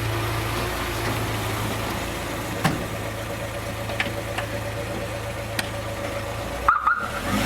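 VAZ-21011's 1.3-litre four-cylinder overhead-cam engine idling steadily with its valve clearances freshly set, no longer knocking from the valvetrain. A few sharp clicks stand out over the idle, and the sound breaks off briefly near the end.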